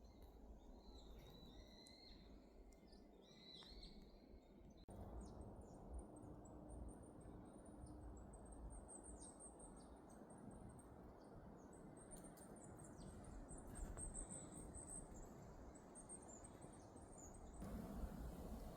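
Faint birdsong of small songbirds chirping over a low, steady background hiss. The higher calls change abruptly about five seconds in and again near the end.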